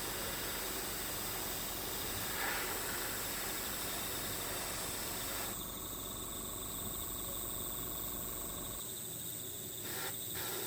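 Outdoor nature ambience with a steady high insect drone. The sound changes abruptly about halfway through and again near the end, as if the ambience track is cut.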